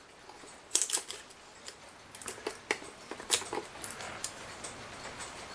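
Irregular light clicks and taps of small clock parts being handled on a workbench.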